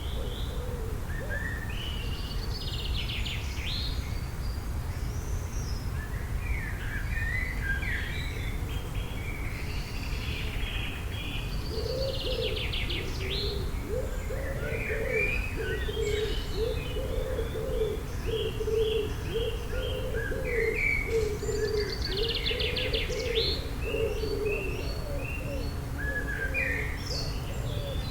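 Several songbirds chirping and trilling in overlapping short phrases, with a low call repeated over and over through the second half, over a steady low rumble.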